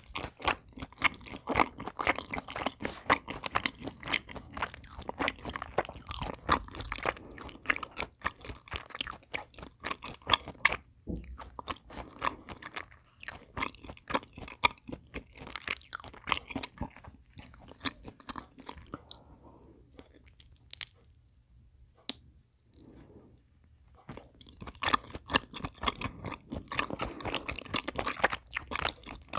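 Close-miked chewing and mouth sounds of a person eating a cocoa-dusted chocolate chapssaltteok, a soft chewy rice cake with a chocolate filling. The chewing thins to a quiet lull about two-thirds of the way through, then picks up again near the end.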